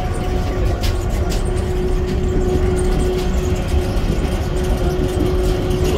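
Airport people-mover train running between stations, heard from inside the passenger car: a steady low rumble with a faint steady whine above it.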